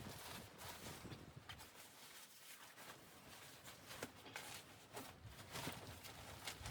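Faint, irregular crunches and light clicks, with a quieter stretch in the middle.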